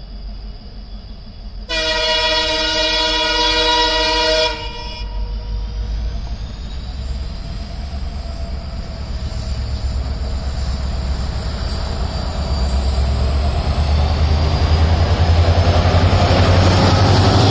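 A train horn sounds one steady blast of about three seconds, a couple of seconds in. Then the rumble of an approaching train grows steadily louder, with a thin whine slowly rising in pitch.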